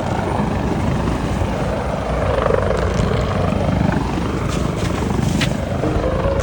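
Steady low rumble of a boat's engines running under way.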